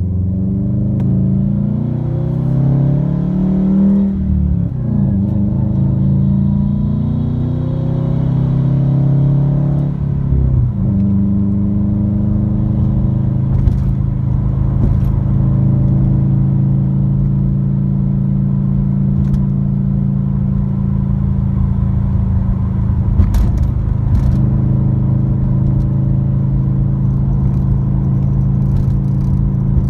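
Subaru WRX turbocharged flat-four with an Invidia N1 dual exhaust, heard from inside the cabin. The engine note climbs through a gear, drops at an upshift about four seconds in, climbs again and shifts once more about ten seconds in, then settles into a steady drone at cruise. A few light knocks from road bumps come later on.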